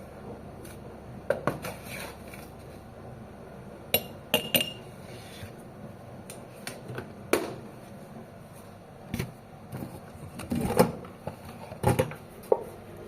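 Dishes and utensils being handled: scattered sharp knocks and clinks, with one brief ringing clink about four and a half seconds in.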